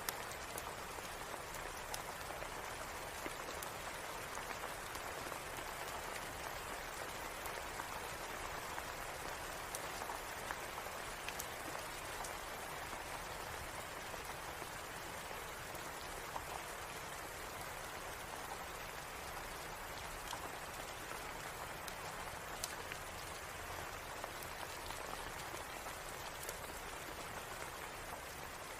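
Steady rain with scattered sharp drop ticks throughout.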